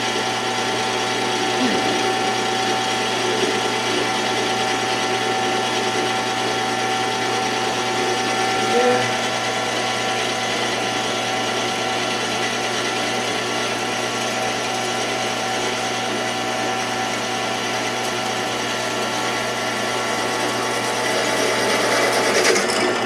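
Drill press running steadily as its bit cuts a hole through a metal bracket. The sound holds at a constant level and changes near the end, as the hole is finished.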